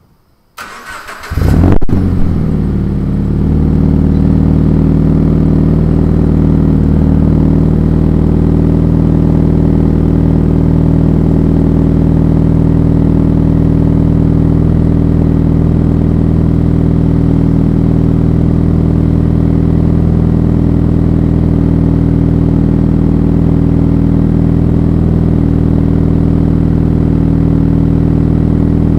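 Scion FR-S's flat-four boxer engine, breathing through a Tomei Expreme Ti titanium catback exhaust, is cold-started: the starter cranks briefly about half a second in, the engine catches with a short flare of revs, then it settles into a steady idle.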